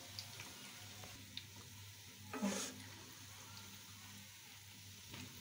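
Besan pakoras frying in hot oil in a nonstick kadai, a faint steady sizzle, while a wooden spatula scrapes and taps the pan to turn them. There is one louder, brief scrape about two and a half seconds in.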